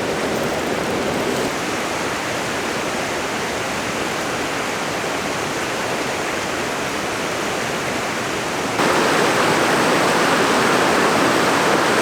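Steady rain falling. It becomes abruptly louder and brighter about nine seconds in.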